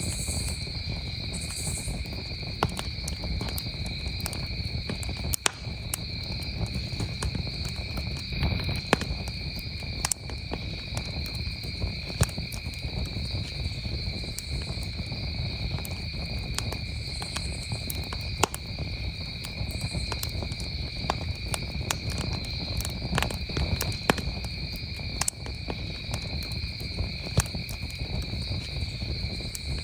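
Campfire crackling with irregular sharp pops over a low steady rumble, while crickets trill steadily and unbroken at a high pitch.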